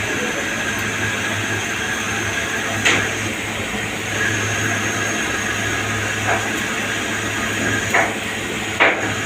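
CNC lathe running while machining: a steady hum with a faint high whine, and three sharp clicks, one about three seconds in and two near the end.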